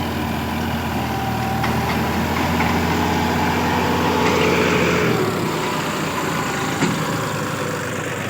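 Sonalika tractor's diesel engine running steadily, its note shifting about five seconds in, with one short knock near the end.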